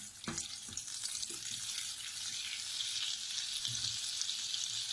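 Butter melting into hot oil in a pan, sizzling steadily, with the sizzle growing a little louder about halfway through.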